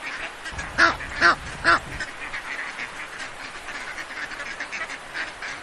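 Ducks quacking: three loud quacks in quick succession about a second in, over continual softer quacking and chatter from several birds.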